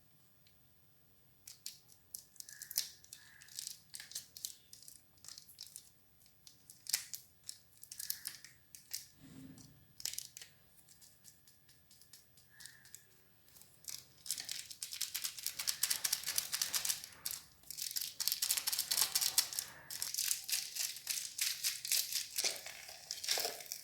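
Crinkling and tearing of a Maggi masala sachet with scattered light clicks, then from about halfway through a steady sizzling hiss with quick scraping as the noodles cook in an electric kettle.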